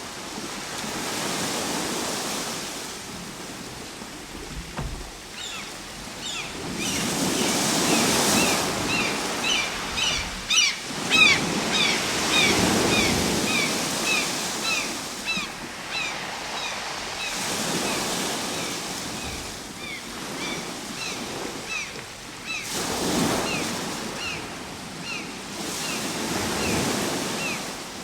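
Ocean waves breaking and washing in, the surf swelling and fading about every five seconds. From about five seconds in, rapid short high chirps sound over the surf.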